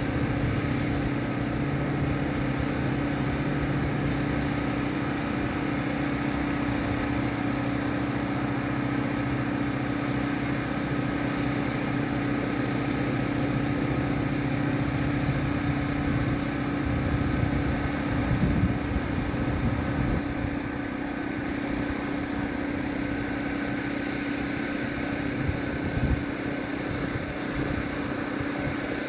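Freight train running past at a distance: a steady mechanical drone with a constant hum. Its lower rumble fades a little past halfway, leaving a fainter drone with a few brief swells.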